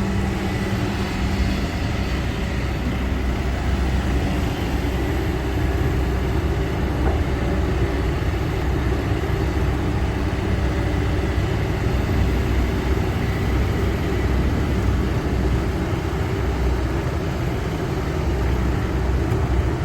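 Kobelco SK200-10 excavator's diesel engine running steadily under load as the machine works its way out of mud, a continuous low drone with no pauses.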